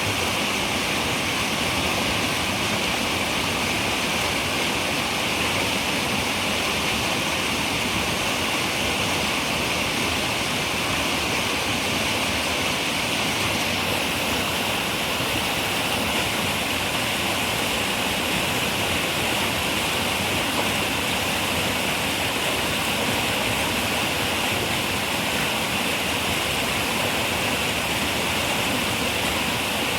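River water running steadily over rocks, an even rushing with a slight hiss that does not change.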